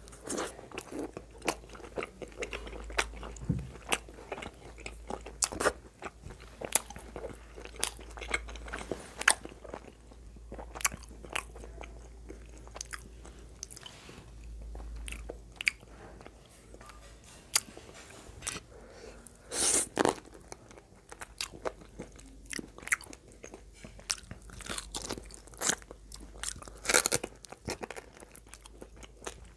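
Close-miked eating: a person biting and chewing curry-soaked meat eaten by hand, with many sharp wet mouth clicks and smacks. A few louder, longer bursts come about two-thirds of the way through and again near the end.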